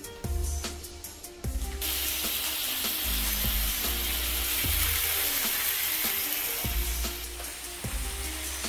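Beef seekh kababs sizzling in hot oil in a frying pan as they are laid in. The sizzle swells sharply about two seconds in, holds steady, and eases off near the end.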